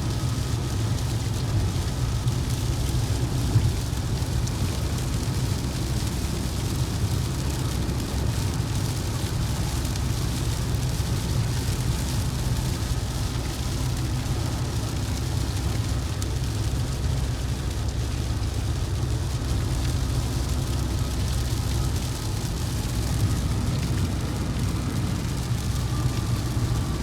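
Steady road and engine noise inside a vehicle cruising on a highway, a constant low rumble with a hiss of tyres and wind over it.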